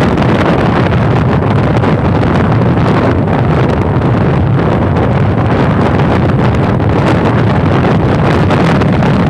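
Loud, steady wind buffeting the microphone of a moving motorcycle, mixed with the bike's engine and road noise.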